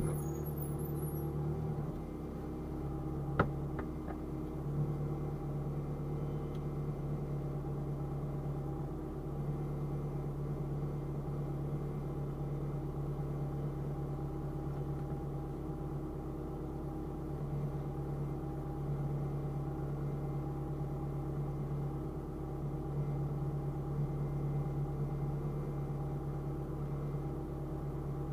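Steady low hum of a car idling, heard inside the cabin while the car stands still, with one sharp click about three and a half seconds in.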